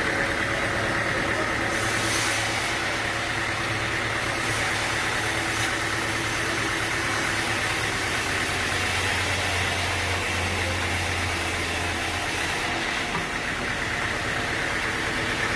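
Sawmill machinery's engine running steadily, with a higher hiss over it from about two seconds in until near the end.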